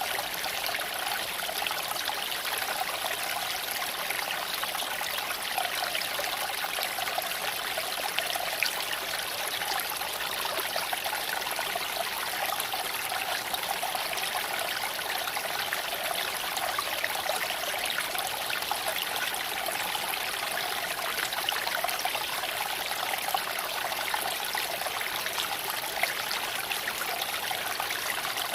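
Small creek flowing and trickling over stones, a steady burble of running water with many small splashes.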